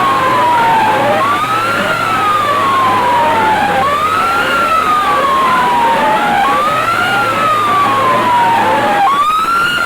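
Siren-style sound effect played loud through a DJ sound-box system. A tone jumps up and slides slowly down, repeating about every two and a half seconds, over quick rising chirps.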